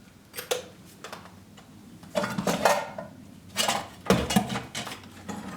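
Old household objects being handled and set down while a kitchen is cleared out, with a few separate clatters and knocks of tins and containers.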